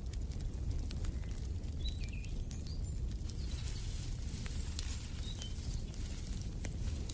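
Wood fire in a fireplace crackling with scattered sharp pops over a steady low rumble. A few short, high bird chirps come about two seconds in and again just past five seconds.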